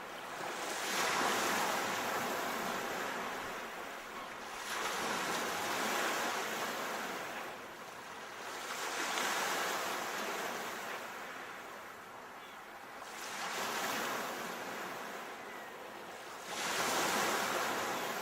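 Sea waves washing in on the shore, surging and ebbing about every four seconds.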